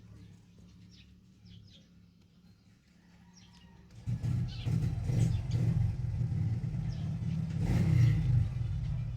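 A motor vehicle's engine running, coming in loudly about four seconds in and at its loudest near the end, as if passing close by. Before it, birds chirp faintly over a low hum.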